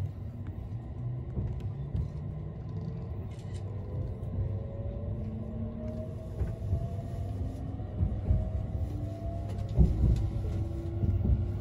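Inside an E657 series electric express train as it pulls away from a station: a low running rumble under a motor whine that rises slowly in pitch as the train gathers speed. There are a few louder knocks from the running gear near the end.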